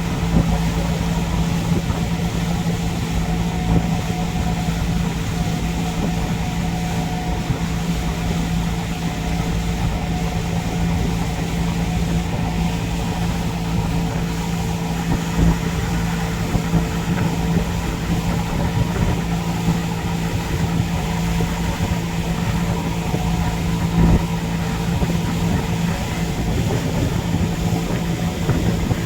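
Boat engine running steadily at a constant pitch with a low hum, with rushing wind and water noise underneath.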